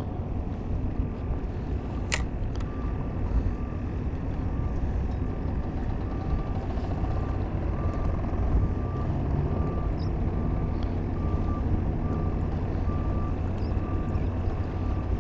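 Steady low engine rumble with a regular electronic beeping, about two short beeps a second, starting about two and a half seconds in. A single sharp click comes just before the beeping starts.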